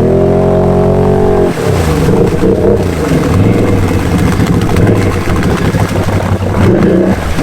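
Can-Am Outlander ATV's V-twin engine revving hard, stuck in a deep mud hole. It climbs and holds high revs for about a second and a half, drops off sharply, then revs up and down unevenly.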